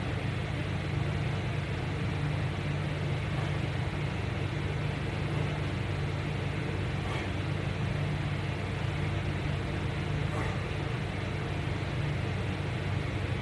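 A steady low hum with even background noise throughout.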